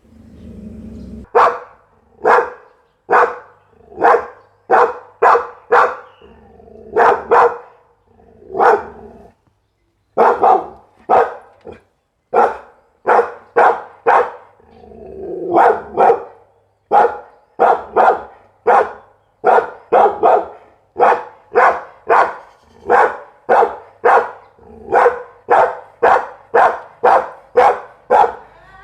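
Pit bull barking over and over, single sharp barks coming about one to two a second in runs, broken by short pauses.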